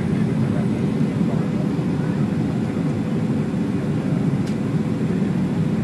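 Steady low rumble of engine and airflow noise inside the cabin of a Boeing 737-800 airliner.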